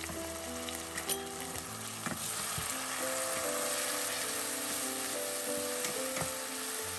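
Chopped onions, ginger and garlic sizzling in hot oil in a stainless steel pot, stirred with a wooden spoon. The sizzle grows louder about two seconds in.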